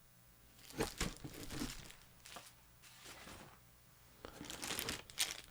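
Packaging rustling and crinkling as items are lifted out of a shipping box, in a few soft rustles about a second in and again near the end.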